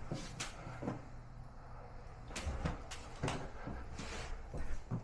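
A few scattered light knocks and clunks, the sound of work materials being handled and set against a wall, over a faint low steady hum.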